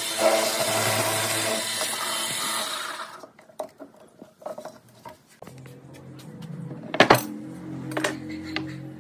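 Electric woodworking power tool running, then cut off about three seconds in, followed by scattered clicks and a few sharp knocks on wood.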